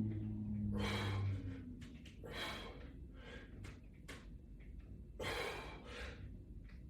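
A person breathing hard during resistance band exercise, with several sharp, hissy exhales a second or two apart.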